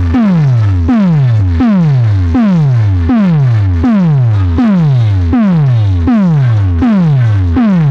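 Loud electronic music built on a deep bass tone that drops in pitch over and over, about once every three-quarters of a second, with synthesizer sounds above it.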